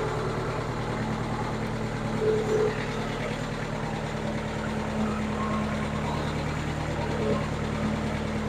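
Bobcat 7753 skid steer's diesel engine running at a steady speed.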